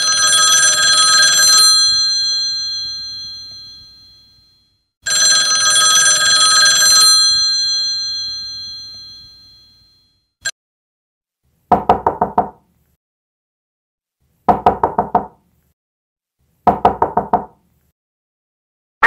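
An old-style telephone bell ringing twice, each ring dying slowly away. Then three quick bursts of knocking, five or six raps each.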